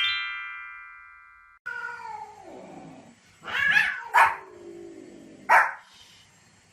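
A ringing chord fades out, then after a cut a dog gives drawn-out whining calls that fall in pitch, broken by three short sharp barks.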